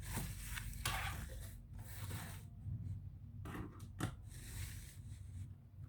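Hands working on a laptop: rough scraping and rubbing of parts, with two sharp clicks, about a second in and about four seconds in, over a steady low hum.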